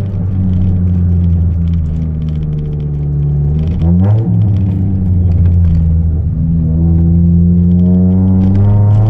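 Chevrolet Celta 1.0's four-cylinder engine running through a 4x1 header and an open two-inch exhaust with no mufflers. It holds a steady note, revs up and back down quickly about four seconds in, then climbs slowly in pitch toward the end.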